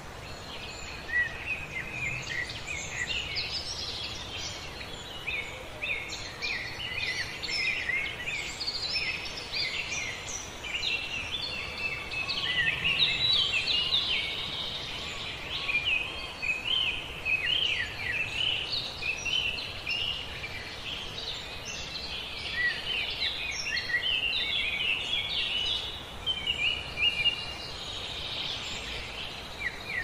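Many small songbirds chirping and singing at once, quick overlapping high notes over a steady hiss of forest ambience.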